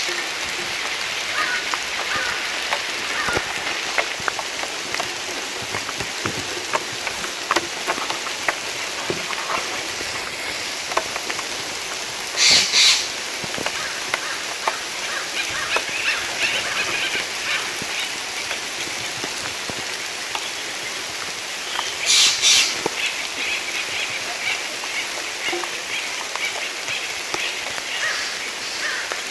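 Steady rain falling through forest trees, with many separate drops ticking and dripping close by. A bird gives short noisy calls twice, about twelve and twenty-two seconds in.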